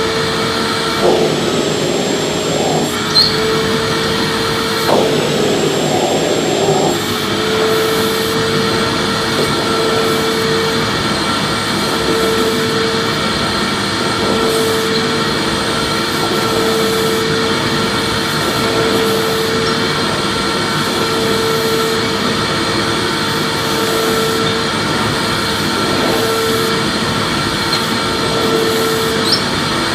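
Vacuum cleaner running steadily: a dense motor-and-airflow rush with a steady whine, its hum pulsing gently about once a second. A few brief knocks sound in the first several seconds.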